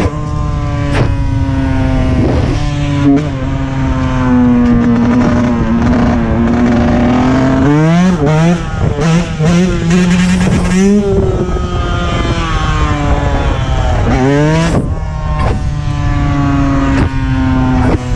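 Dirt bike engine running with the throttle worked on and off. Its pitch holds and sags through long stretches, with a quick run of four or five throttle blips about eight to eleven seconds in and another sharp rev a few seconds later.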